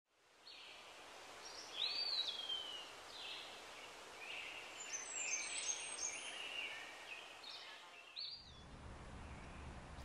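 Birds calling, a mix of short chirps and a falling whistle, over a faint outdoor hiss. About eight seconds in the birds stop and a low steady rumble takes over.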